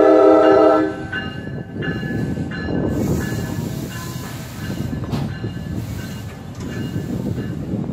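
NJ Transit bi-level push-pull train: the lead cab car's horn sounds a chord that cuts off about a second in. Then the train rolls over the road crossing with a steady rumble of wheels and cars, and a single clank about five seconds in, as it comes in to stop at the station.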